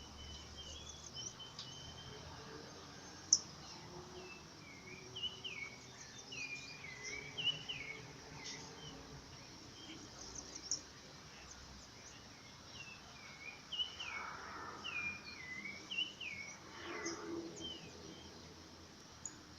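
Several birds calling over and over in short, hooked chirps, over a steady hiss of rain. A single sharp click about three seconds in.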